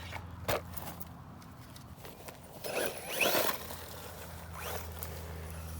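HBX Firebolt 1/12-scale brushless RC buggy running off-road: a knock about half a second in, then around three seconds in the motor speeds up with a brief rising whine as the tyres scrabble over dirt.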